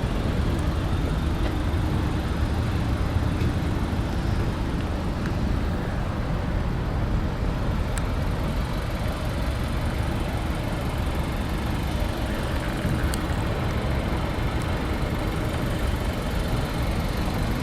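A steady low rumble of a car idling, most plausibly the Volkswagen Golf's 1.4-litre turbocharged inline-four, with a couple of faint ticks.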